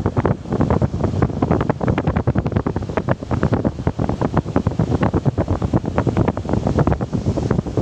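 Strong wind buffeting the microphone in rapid, irregular gusts, with the sea behind it.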